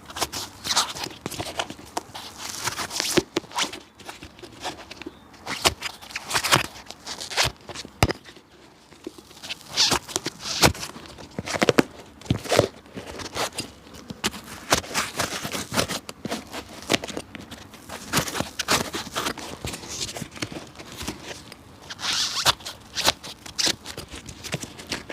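Cobbler's hand work on a very old shoe: irregular scratchy strokes and sharp clicks at an uneven pace.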